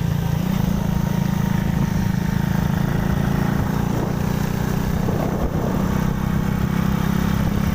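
Motorcycle engine running steadily while riding, with a constant hiss over the higher sounds.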